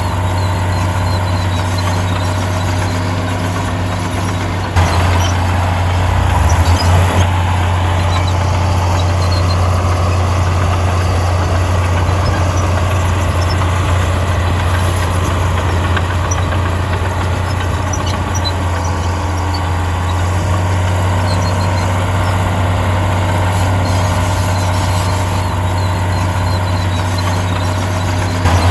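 Heavy diesel engine of an earthmoving machine running steadily with a deep, low hum. It grows louder about five seconds in and briefly wavers, then settles.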